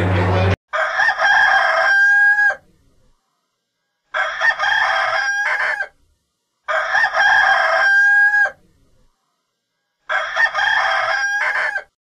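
A rooster crowing four times, each crow about two seconds long, with a long held note at its end and silence between crows.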